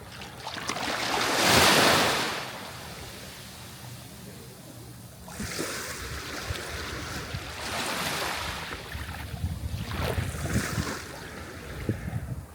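Sea waves breaking and washing on a shore, the loudest breaker about two seconds in, then further smaller waves rolling in, with wind on the microphone.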